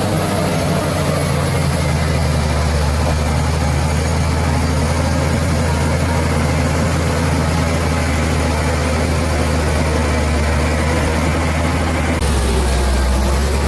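Bulldozer's heavy diesel engine running steadily with a deep hum. The engine sound shifts abruptly about twelve seconds in.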